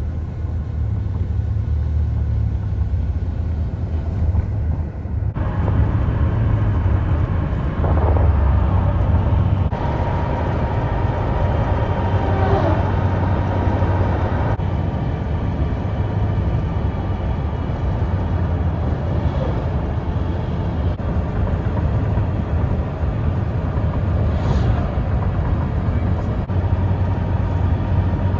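Highway traffic, big trucks among it, making a steady low rumble of engines and tyres. It starts abruptly and has a faint whine in the middle.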